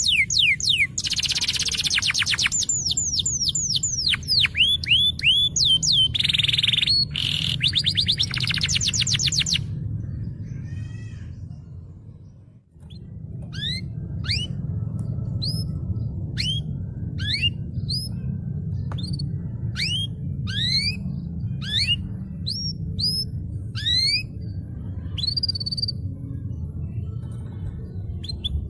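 Canary singing: fast, dense trills and rolls of falling notes for about ten seconds, fading away, then a run of separate short rising chirps. A steady low hum runs underneath.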